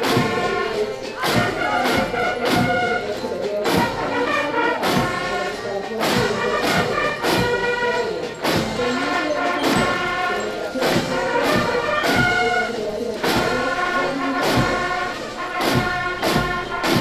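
A military brass band playing a march: trumpets and trombones over a steady bass-drum beat.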